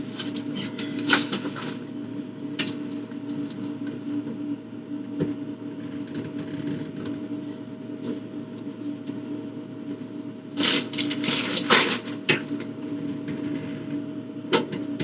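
Containers and food items being handled and set down while a refrigerator is cleared out, giving scattered clicks and knocks, with a louder run of rattling and clatter about ten to twelve seconds in. A steady low hum lies underneath throughout.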